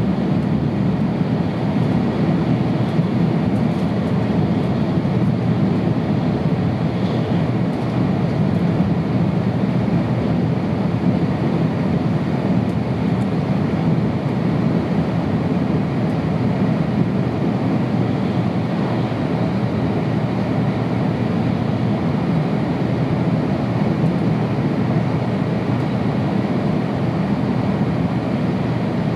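Steady running noise heard inside a Tohoku Shinkansen passenger car at high speed: a low, even rumble of wheels on rail and air rushing past, with no change in level.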